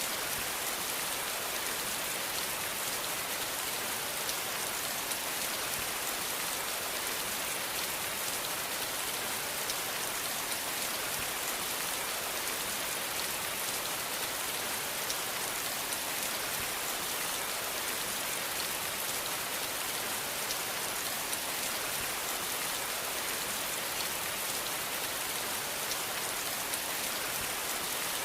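Steady rain falling on a hard surface: an even hiss dotted with many small drop ticks.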